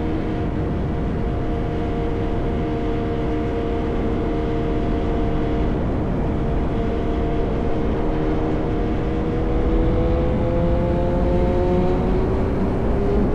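Yamaha R1 inline-four running at steady cruising revs through an SC-Project exhaust, over a steady rush of wind and road noise. About ten seconds in, the engine note starts to rise gently and gets a little louder as the bike picks up speed.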